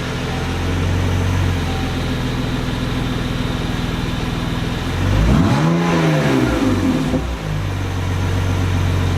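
BMW E46 330ci straight-six exhaust with the muffler removed, idling with a deep note, then revved once about five seconds in; the pitch rises and falls back to idle within about two seconds.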